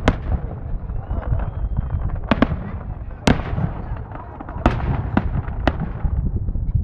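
Fireworks display: about seven sharp bangs of aerial shells bursting at irregular intervals, the loudest a little past three seconds in, over a continuous low rumble.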